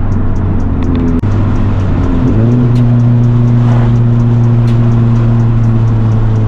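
Car engine and exhaust heard from inside the moving car, a steady drone. About a second in it briefly drops out, then the engine note climbs to higher revs and holds steady, as with a gear change.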